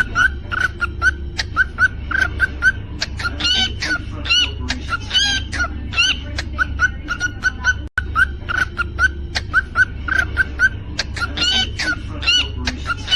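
Cockatiel chirping and whistling: quick short notes repeated several times a second, mixed with rising whistled phrases, over a steady low hum. The sound cuts out for an instant about eight seconds in.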